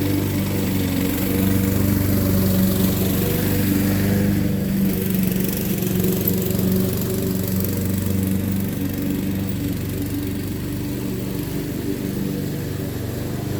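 Honda HRX217 walk-behind mower's single-cylinder engine running steadily while bagging thick, wet grass. It rises a little for a few seconds near the start and eases slightly toward the end as the load changes.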